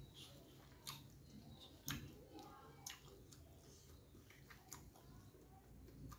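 Faint close-up chewing of a mouthful of martabak, with a few sharp wet mouth clicks about a second apart.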